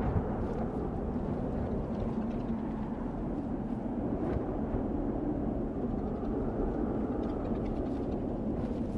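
Desert wind blowing steadily, a low rushing rumble with a few faint, brief hisses over it.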